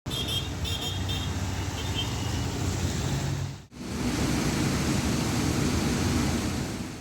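Steady road traffic noise with several short high toots in the first half. It breaks off about halfway through and is followed by another stretch of the same steady traffic noise.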